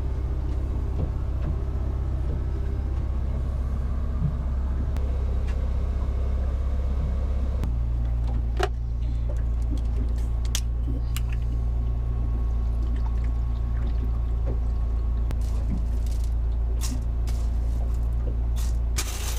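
A steady low machine hum whose pitch pattern shifts abruptly about eight seconds in, with a few faint clicks and knocks in the second half.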